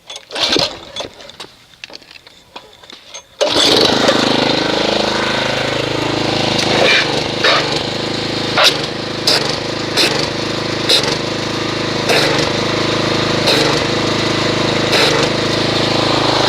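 A few handling clicks, then a pressure washer starts about three and a half seconds in. It runs steadily, spraying water into a wash bucket to agitate car soap into suds.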